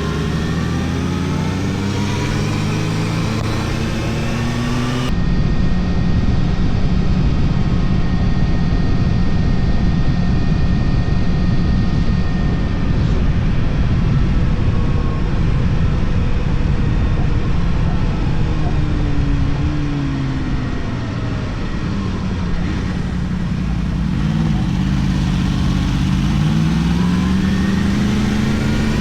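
Yamaha R1 inline-four engine pulling through the revs for the first five seconds, then heavy wind buffeting on the microphone at speed largely covers it. The engine note rises and falls again near the end.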